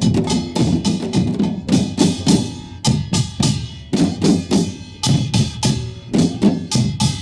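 Korean pungmul percussion band playing a fast, driving rhythm: a kkwaenggwari (small hand gong) struck rapidly and ringing brightly over buk drum beats.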